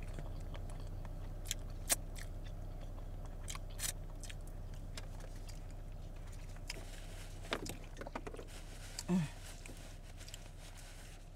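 Close-up chewing and biting of crunchy food, with scattered sharp crunches and clicks, over a steady low hum from the car's air running. A short, low voiced hum comes from the eater about nine seconds in.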